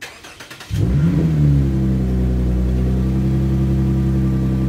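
2014 Lexus IS's V6 being started: a brief crank, then the engine catches about a second in with a short rise in revs and settles into a steady idle.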